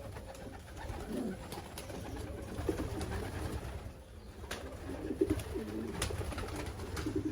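Racing pigeons cooing: low, warbling coos several times over, with a few sharp clicks among them.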